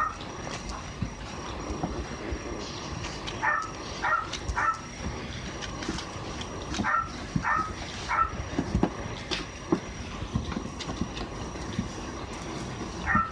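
Kittens scrabbling in a cardboard box, with knocking and scraping throughout and short, falling high cries in two quick runs of three or four, the first about three and a half seconds in and the second near seven seconds. A faint steady high whine lies underneath.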